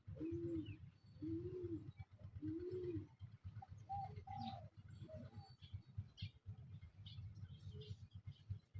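Dove cooing: three low, arching coos a little over a second apart. These are followed by higher bird calls and small chirps over a steady low rumble.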